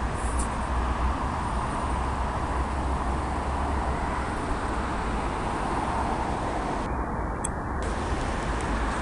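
Swollen river in flood rushing past in a steady, unbroken roar of water, with a low rumble underneath.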